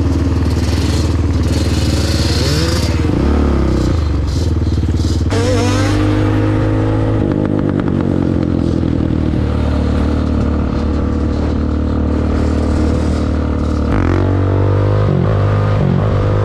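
Dirt bike engine running and being ridden, its pitch dropping and climbing with the throttle and gear changes, with a rising rev about fourteen seconds in.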